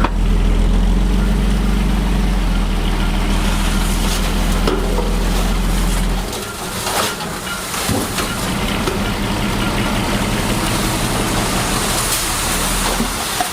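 Diesel engine of heavy earthmoving machinery running steadily under load, loud for about the first six seconds, then easing to a lower level and running on.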